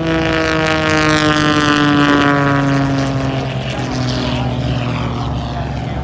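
Propeller airplane's engine passing by, its pitch sliding slowly down as it goes, loudest about two seconds in, over a steady lower drone.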